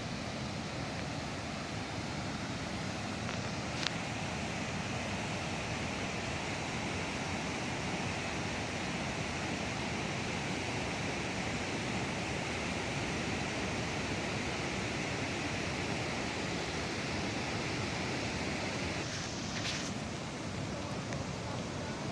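Waterfall on the Snake River, its water rushing in a steady, even roar, with one short click about four seconds in.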